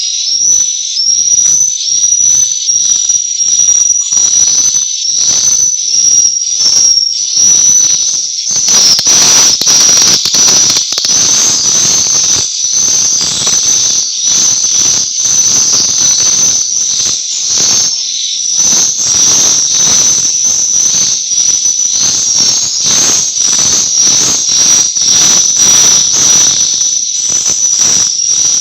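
Swiftlet calls: a continuous high, wavering twittering chirp overlaid with a dense train of sharp clicks.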